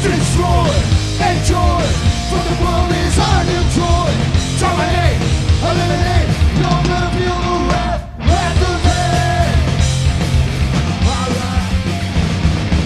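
Punk rock band playing loud, with distorted electric guitars, bass and drums, and a melodic lead line over them. The whole band cuts out for a split second about eight seconds in and crashes straight back in.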